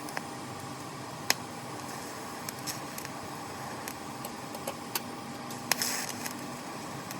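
TIG welding on the steel mower deck: a steady hiss and hum with scattered sharp ticks, the sharpest about a second in, and a short crackling burst near six seconds.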